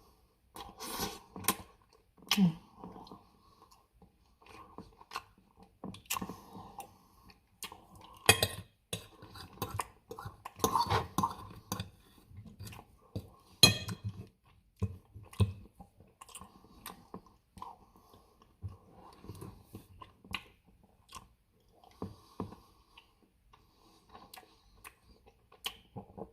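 Close-up chewing and eating of Dairy Queen Reese's Blizzard ice cream cake, wet mouth sounds broken by frequent sharp clicks and taps.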